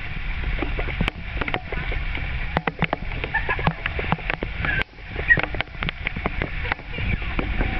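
Storm runoff flowing through a flooded desert wash after a heavy monsoon downpour, with frequent sharp splashes and sloshing from people splashing around in the water.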